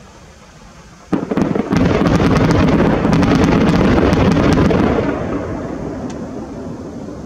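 Fireworks going off: about a second in, a sudden loud barrage of bursting shells and rapid crackling pops, lasting about four seconds, then fading away slowly.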